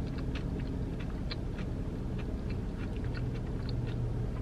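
A person chewing food close to the microphone: a run of small, wet mouth clicks and smacks, with a faint low hum underneath.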